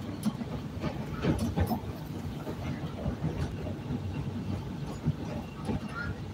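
CTA Red Line rapid-transit train running along the track, heard from inside the car: a steady low rumble with scattered clicks and knocks from the wheels on the rails.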